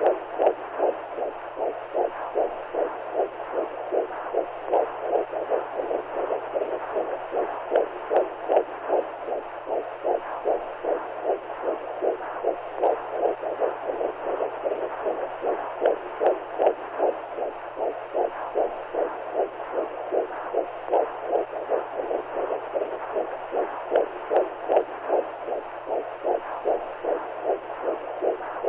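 Womb sound for soothing a newborn: a muffled whooshing noise pulsing in an even, quick heartbeat-like rhythm, over a steady low hum.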